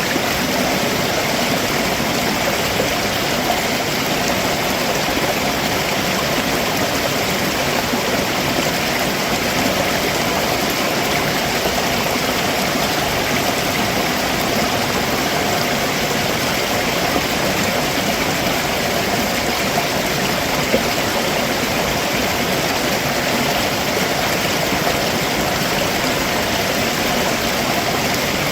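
Stream water rushing steadily over rocks below a waterfall, an even, unbroken rush.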